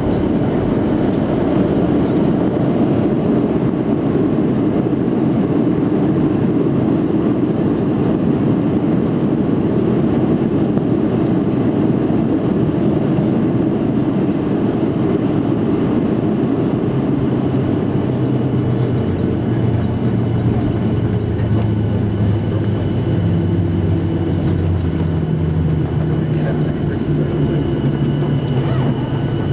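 Airliner cabin noise during landing: a loud, steady rumble of engines and rushing air. Low engine hum tones come in about halfway through and step up in pitch a few seconds later.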